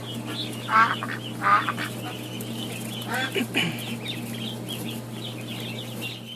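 Ducks quacking: loud quacks about one and one and a half seconds in and again around three seconds, with softer calls in between, over a steady low hum.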